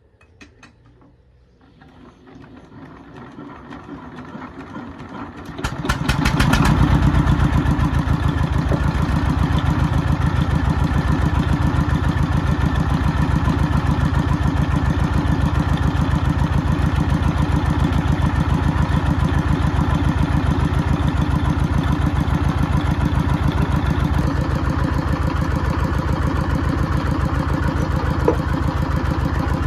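A sound cuts out abruptly, then an engine-driven machine swells up over about six seconds and runs steadily with a fast, even pulsing beat, typical of a combustion engine. A single click comes near the end.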